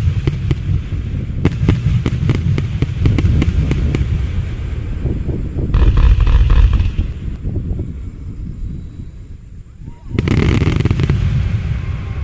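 Aerial fireworks going off: rapid strings of sharp bangs and crackles for the first few seconds, a heavy boom about six seconds in, then the noise dies down before another loud burst just after ten seconds.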